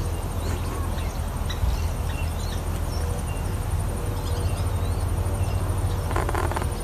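Pet birds chirping faintly over a steady low hum, with a short, harsher burst about six seconds in.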